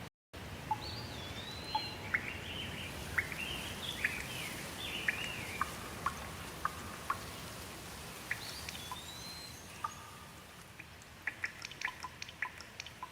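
Small birds singing, with quick chirps and a whistled rising-then-falling note heard twice, over a steady hiss. Near the end the singing gives way to a patter of quick water drips.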